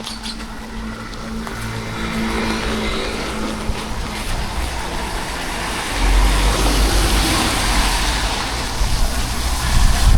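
Street traffic with a vehicle engine running close by, over a steady hiss. From about six seconds in, wind buffets the microphone with a heavy low rumble.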